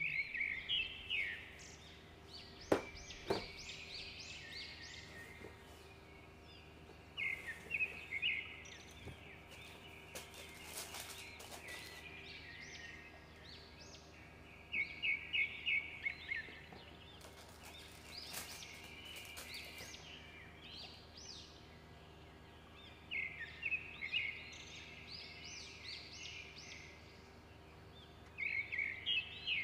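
A bird calling in short bursts of quick, high chirps, one burst every few seconds, over a steady low hum. Two sharp clicks about three seconds in, and rustling noise later on.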